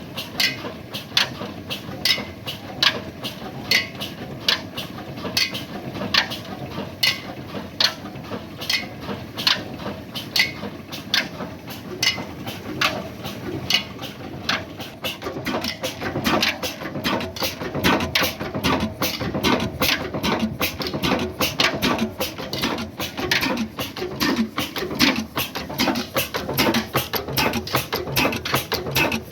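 Old 35 HP Ruston Hornsby diesel engine running slowly, giving a regular mechanical clack about once a second; from about halfway a faster, more irregular clicking joins in.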